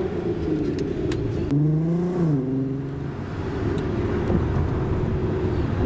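Volkswagen Golf R32's 3.2-litre VR6 engine through a Milltek exhaust, heard from inside the cabin while driving. The engine note climbs, drops sharply a little over two seconds in, then runs at a steadier, lower pitch.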